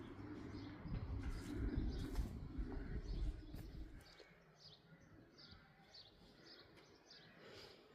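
A small bird chirping over and over, short high calls about twice a second. A low rumbling noise drops away about four seconds in.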